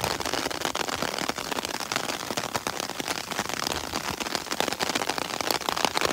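Rain falling steadily, drops pattering on an umbrella overhead and on the wet road in a dense, even crackle.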